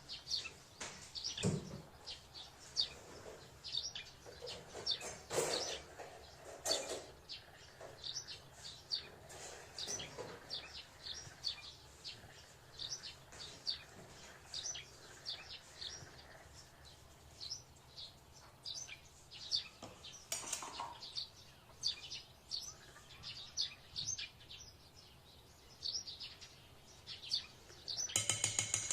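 A small bird chirping over and over in short, high calls. A few sharp clinks of kitchen utensils come in between, then a quick run of clinking near the end.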